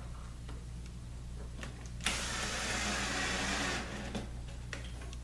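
A power drill runs for just under two seconds, starting abruptly about two seconds in, working at a drawer slide's centre mounting hole; a few light clicks and taps of handling come before and after.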